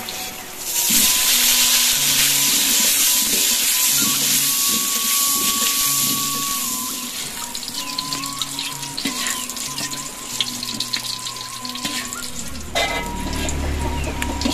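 Halved small round eggplants (terong lalap) frying in hot oil in a steel wok: a loud sizzle starts about a second in, then eases after several seconds to a lighter, crackling fry. A single knock near the end.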